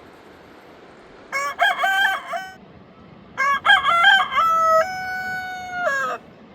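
A rooster crowing twice: a short crow about a second in, then a longer crow whose final note is held for over a second before it breaks off.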